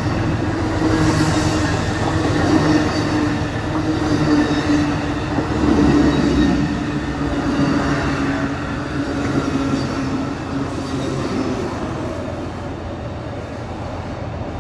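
Amtrak Coast Starlight passenger train rolling past at close range: a steady rumble of wheels on the rails with a humming tone. It eases off slightly over the last few seconds.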